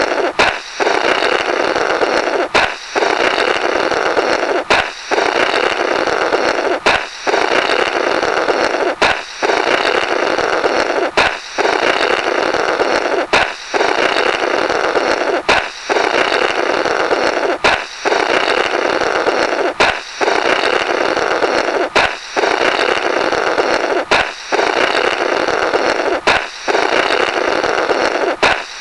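A comical 'Blorrrt' cartoon sound effect repeating about every two seconds: a balloon pops with a sharp crack, then someone blows through the burst balloon's remnants in a long buzzing blorrrt.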